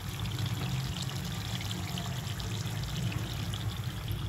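Chicken pieces in masala gravy frying in a nonstick pan: a steady sizzling, crackling hiss from the hot oil and reducing liquid.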